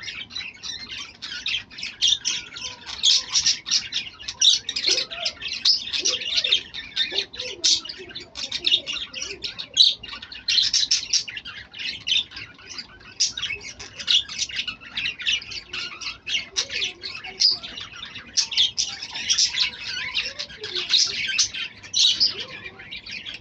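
A flock of lovebirds chattering: a constant jumble of rapid, shrill chirps and squawks with no pauses.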